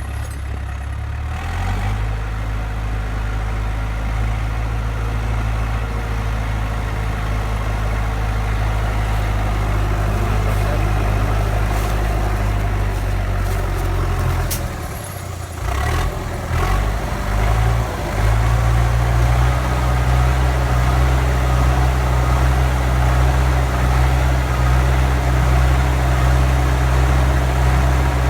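Tractor engine running steadily with a low hum. About halfway through it dips and falters unevenly for a few seconds, then runs on louder and steady.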